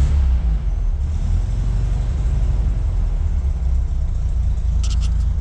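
Air-cooled Volkswagen Beetle flat-four engine running steadily just after a cold start, still cold, on carburetors with no choke. A few short clicks sound near the end.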